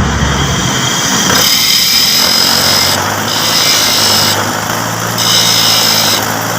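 A replacement starter-motor carbon brush being ground down to size on a running power tool: three high, rasping passes of about a second each, with a steady motor hum under them.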